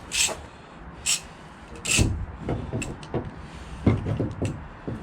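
Clamps and a wooden board knocking and clattering as they are set against the hull, with a handful of sharp knocks about a second apart and smaller rattles between them.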